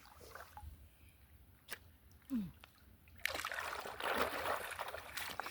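Water splashing and sloshing close by, a steady rush that starts about three seconds in. Before it there is one sharp click and a brief low voice sound.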